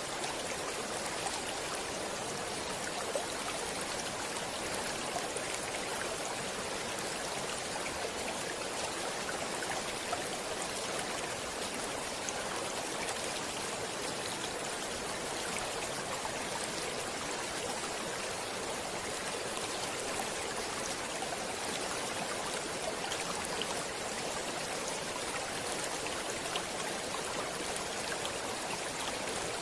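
Stream water flowing steadily: an even rush with small scattered splashes and drips.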